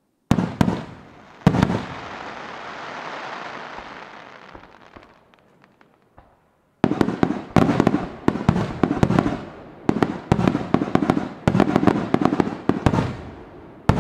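Aerial firework shells bursting. A few sharp bangs come in the first second and a half, followed by a long crackling hiss that fades out. After a brief gap, a rapid barrage of bangs follows, several a second.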